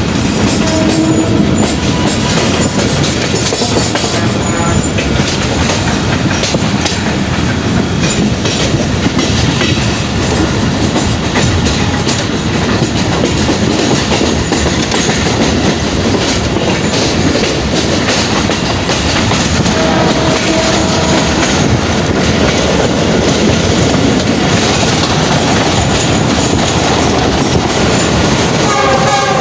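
Karachi Circular Railway passenger train running along the track: a loud, steady noise of wheels and carriages on the rails.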